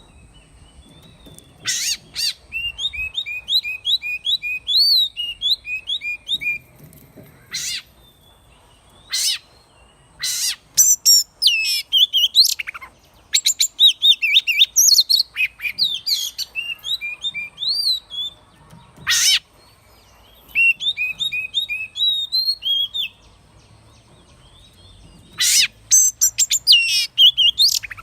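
An Oriental magpie-robin singing: phrases of rapid, varied whistles and rising and falling glides, broken by short, sharp harsh notes and brief pauses.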